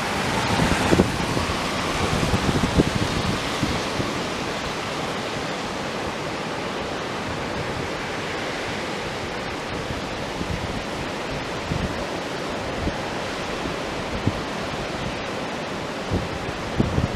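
Steady rushing of a flood-swollen river running high after a typhoon's heavy rain, with wind buffeting the microphone near the start and again near the end.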